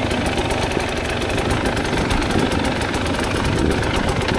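Dirt bike engine running steadily, with a rapid, even pulse.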